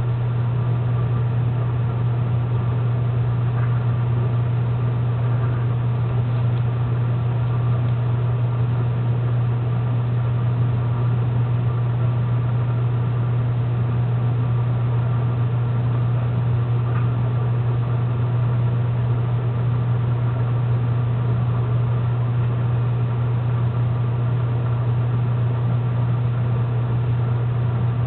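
A car engine idling: a steady, unchanging low hum.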